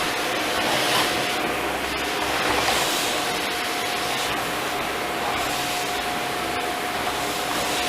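Philips vacuum cleaner running steadily, its motor and airflow giving a constant rushing noise with a steady whine, rising slightly now and then as it sucks up dust.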